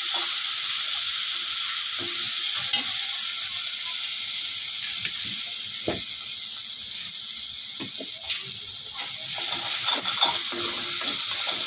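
Onion and spice masala sizzling steadily in hot oil in a metal kadhai, while a perforated metal spoon scrapes and knocks against the pan as it is stirred.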